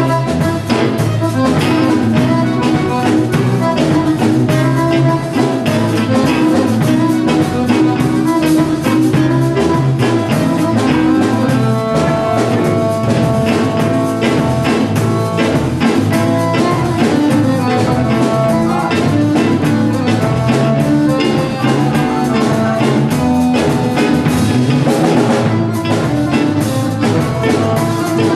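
Jazz-leaning Bosnian sevdah band music, with drum kit, double bass and strings playing continuously at a steady level.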